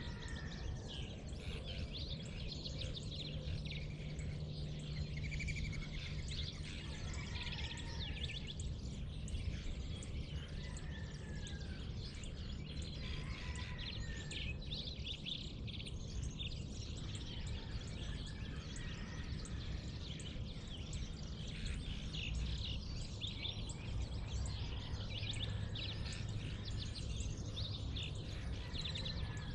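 Dawn chorus: many birds chirping and whistling at once, over a steady low hum.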